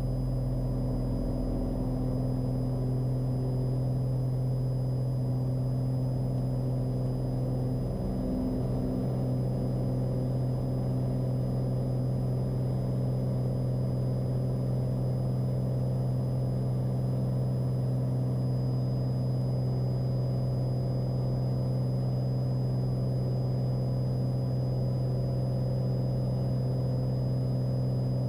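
Cessna 182's piston engine and propeller giving a steady, unbroken drone at takeoff and climb power.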